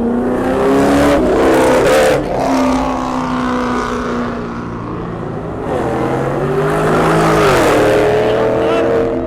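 A car engine revving hard twice: each time the pitch climbs, holds high for a moment and then drops back.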